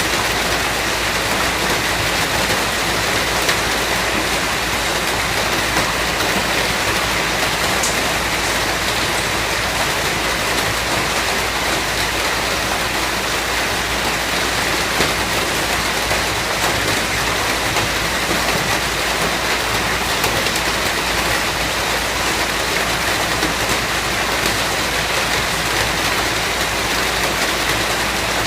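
Steady rain falling on a surface, an even dense hiss with faint scattered drop ticks.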